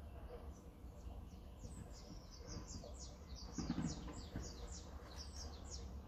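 A small songbird singing a long run of quick, high chirps, each note sliding down in pitch, about four a second. There is a soft low thud a little past the middle.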